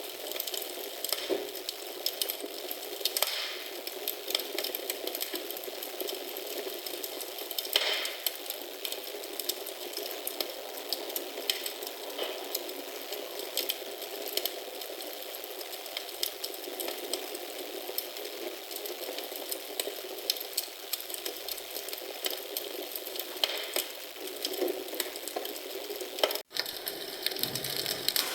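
Wood fire in a fireplace crackling steadily: a constant hiss of burning with dense small crackles and occasional louder pops. The sound cuts out for an instant near the end, then resumes.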